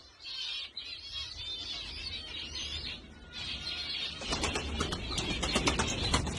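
Pigeons in a flock, small chirping calls with wings flapping; from about four seconds in, a louder flurry of wingbeats and clattering.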